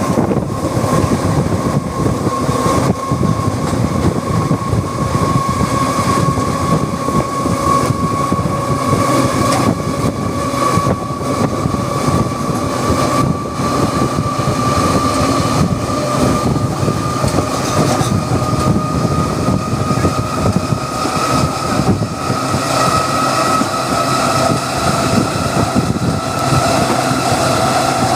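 Passenger train running on the rails: a steady rumble with a whining tone that slowly rises in pitch throughout.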